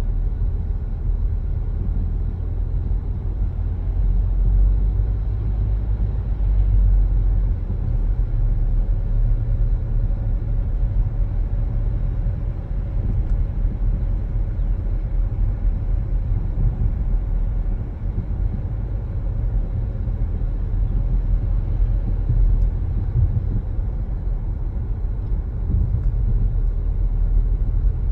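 Car driving along at steady speed: a continuous low rumble of road and engine noise with no distinct events, plainly heard from inside the car.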